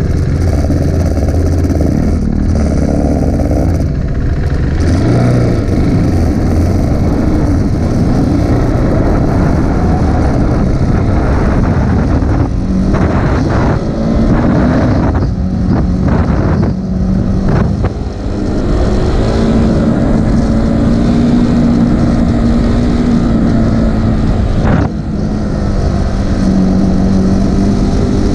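KTM RC 390's single-cylinder engine running hard under acceleration as the bike leaves the pits and laps the track. The pitch climbs and changes, with several brief dips in the sound at gear changes in the middle and one near the end.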